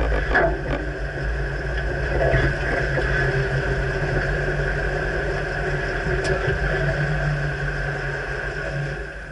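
2009 Dodge Ram pickup running with a steady engine and road hum, with a few sharp knocks in the first half second; the hum drops off near the end.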